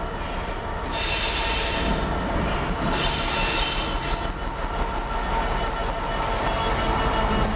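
An electric train running on the rails with a steady rumble, with two bursts of high-pitched wheel squeal, one about a second in and one about three seconds in.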